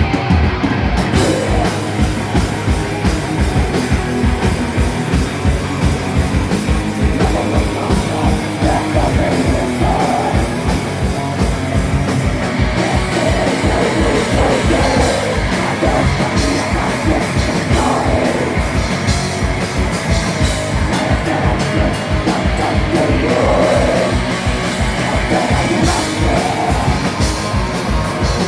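Rock band playing live and loud: a fast, steady drumbeat under guitars, with a voice singing in stretches.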